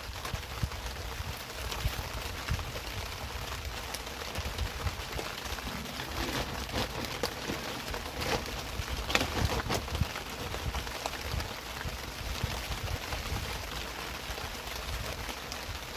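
Heavy rain pouring down: a steady hiss with scattered sharper taps of drops.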